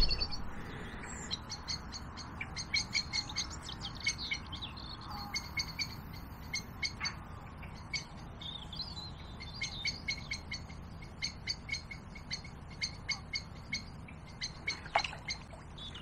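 Small birds calling: runs of short, high chirps, several a second, coming in bursts with short gaps between.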